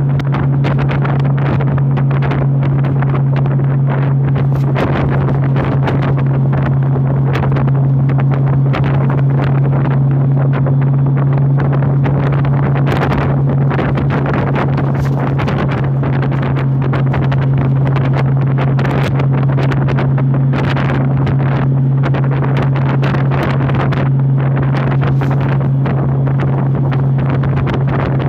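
Honda motorcycle engine running at a steady cruise of about 60 mph, its low drone holding one pitch, with wind rushing and buffeting over the microphone.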